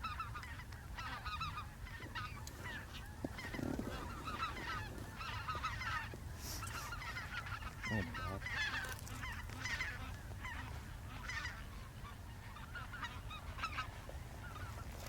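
A chorus of snow geese calling: many overlapping high, short honks and yelps running on without a break, over a steady low rumble.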